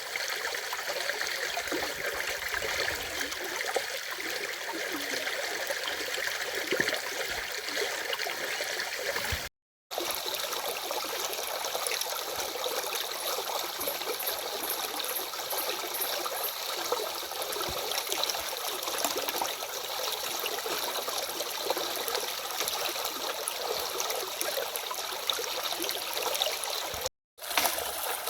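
A stream's water running over its bed in a steady rush. The sound cuts out completely for a moment twice, about ten seconds in and near the end.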